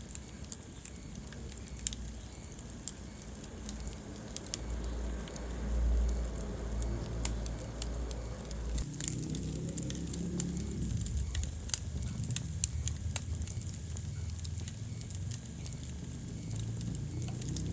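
Wood fire burning in a fireplace: irregular sharp crackles and pops over a low, steady rumble of flames, with a few louder pops.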